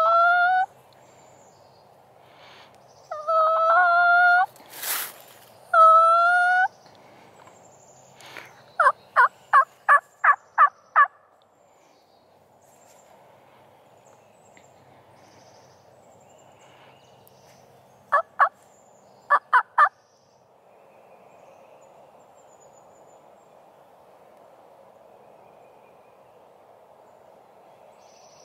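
Loud bird calls: several drawn-out pitched calls in the first few seconds, then a quick run of about six short repeated notes, and later a shorter run of four.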